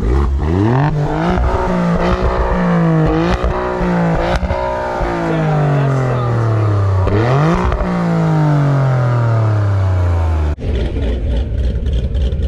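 Fifth-generation Camaro V8 with headers, X-pipe and near straight-pipe exhaust being revved: it climbs quickly, blips several times, then sinks slowly. It snaps up sharply once more about two-thirds through and sinks again. Near the end the sound changes abruptly to a steadier low engine rumble.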